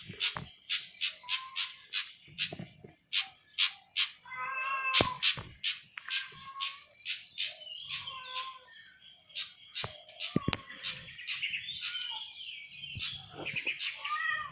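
A bird singing: a rapid, continuous run of short chirps and whistled notes, some of them rich, warbled phrases.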